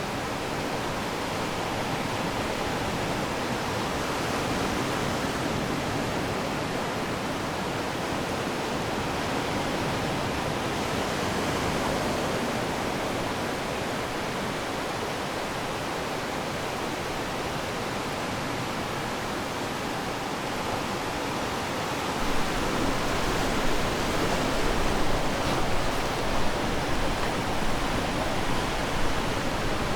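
Ocean surf washing onto the shore: a steady rushing hiss that swells gently now and then. About three quarters of the way in, a low, gusty rumble joins it.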